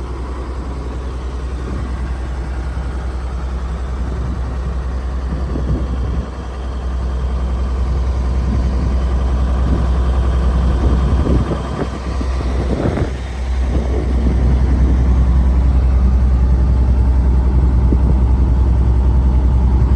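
Caterpillar diesel engine of a GMC TopKick truck running with a steady low rumble. It grows gradually louder, with a couple of brief dips around the middle.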